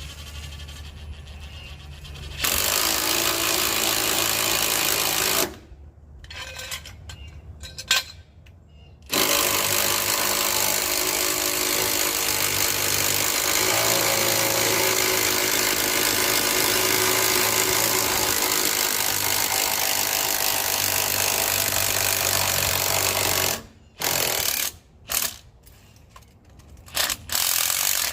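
MIG welder welding patches on a rusted exhaust pipe: a steady crackling sizzle that starts and stops sharply with the trigger. It runs in one short bead of about three seconds, a brief flash, then a long bead of about fourteen seconds.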